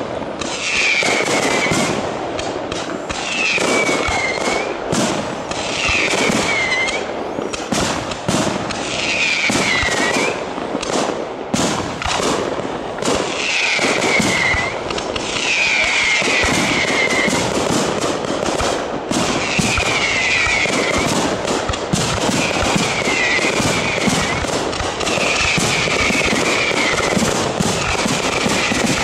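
Aerial fireworks shells bursting in quick succession, with dense crackling and bangs and no pause. A short falling whistle recurs every two seconds or so over the bursts.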